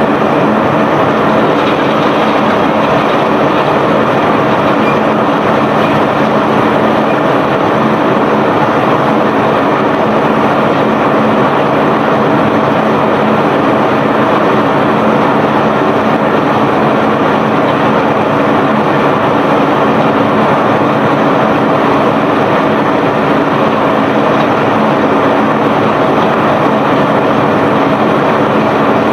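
Steady, loud machinery noise of a self-unloading barge discharging bulk iron ore and rock: conveyor and engine running continuously, with a constant hum under a dense rumble of moving cargo.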